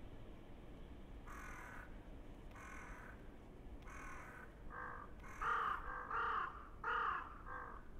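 A bird giving a series of about nine harsh caws, each short, coming quicker and louder in the second half.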